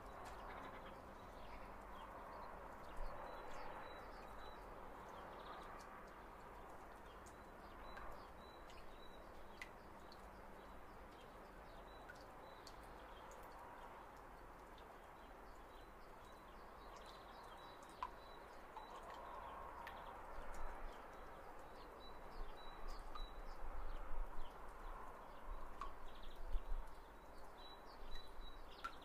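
Faint birds chirping in short, repeated high notes over a steady background hiss, with scattered small clicks and knocks, more of them near the end.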